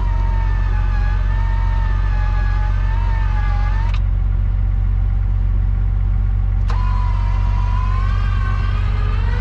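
Electric winch motor whining as it pulls a stuck truck out, over the steady low hum of idling engines. The whine stops with a click about four seconds in and starts again with another click near seven seconds.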